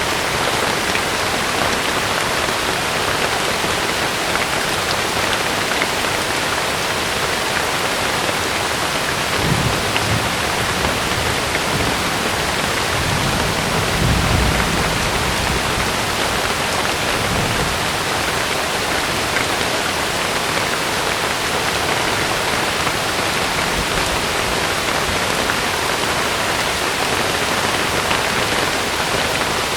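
Heavy rain falling steadily on a tent, with low rumbles of thunder about ten seconds in and again around fourteen seconds.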